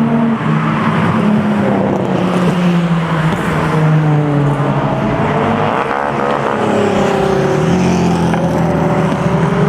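Performance car engines running loud as cars drive past, their exhaust notes rising and falling with the throttle.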